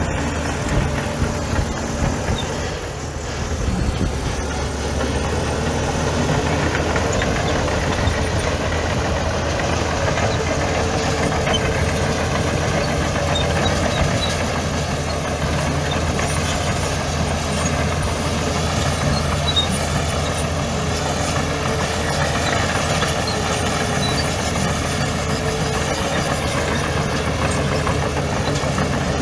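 Heavy diesel engine of earthmoving machinery running steadily at a constant speed, with a brief dip about three seconds in.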